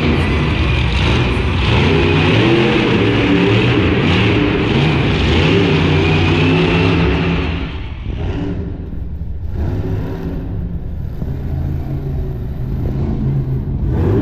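Monster truck engine running hard and revving in an arena. It is loud for the first eight seconds, eases off to a lower running sound, then picks up again near the end.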